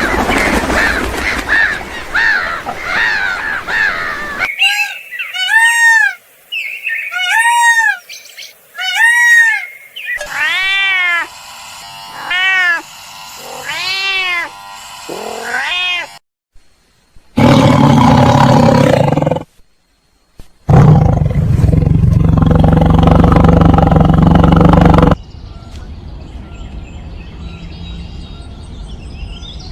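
A series of animal calls: many short rising-and-falling meow-like cries in the first half, then two loud, rough stretches of a big cat growling and roaring, each a few seconds long.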